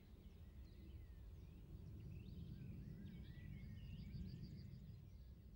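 Faint birdsong: scattered short chirps and whistles, with a quick run of high notes about four seconds in, over a low steady rumble.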